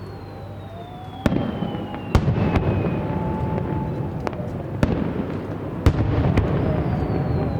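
Fireworks display: aerial shells bursting in a string of sharp bangs, with crackling between them and thin whistling tones that glide up or down in pitch.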